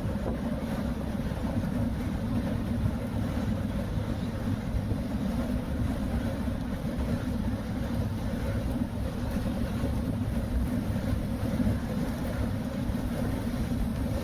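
Steady low rumble of a car under way on a rain-wet road, heard from inside the cabin.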